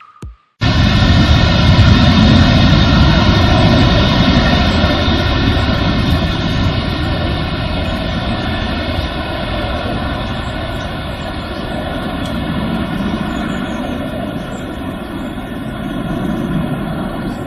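Airbus Beluga's twin turbofan engines at takeoff power, cutting in abruptly about half a second in: a steady low rumble under a stack of steady whining tones, loudest in the first few seconds and then slowly fading.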